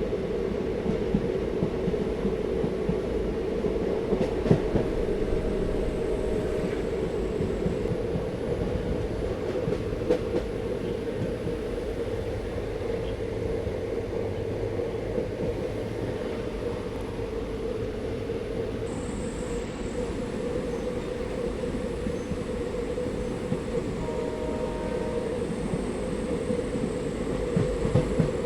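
Passenger train running along the line, heard from on board: a steady rumble of wheels on rails with a constant hum and an occasional knock.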